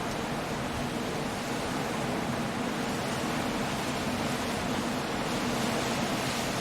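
Coastal storm: wind, rain and surf blended into one steady, even wash of noise with no distinct breaks or impacts.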